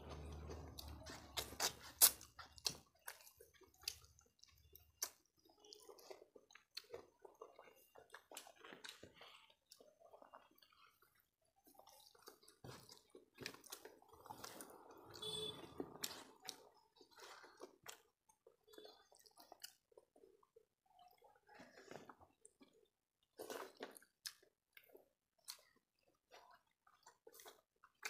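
Two people chewing and eating rice and curry by hand, with soft wet mouth sounds and scattered short clicks and taps, separated by quiet gaps.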